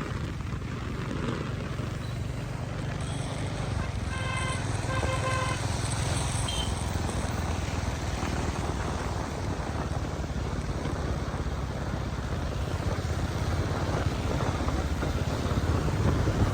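Motorcycle riding along with a steady engine rumble and wind buffeting the microphone. About four seconds in, a vehicle horn sounds twice in short beeps.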